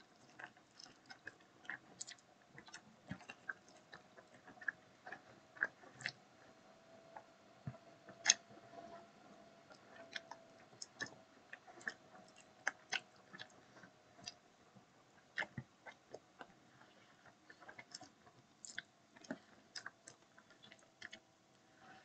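A person chewing and gnawing food held up to the mouth in both hands: quiet, irregular wet mouth clicks and smacks, several a second.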